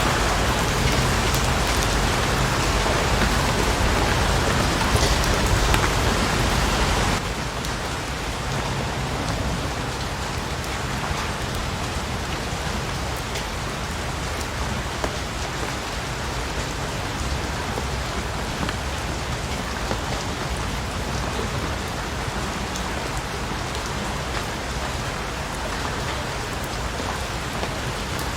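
Steady rain falling, an even hiss with scattered drop ticks. About seven seconds in it turns suddenly quieter and loses its low rumble, then runs on evenly.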